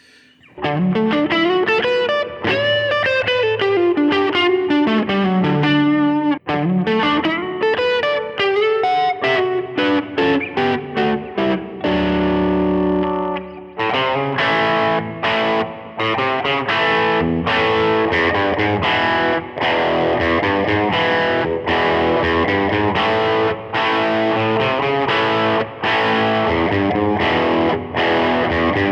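Overdriven electric guitar: a Les Paul through Universal Audio's virtual Nobels ODR-1 (Nashville Overdrive) plugin and a virtual Vox AC30 amp with reverb, playing simple riffs. It starts with quick single-note lines, holds a chord for about two seconds midway, then plays a rhythmic chord riff.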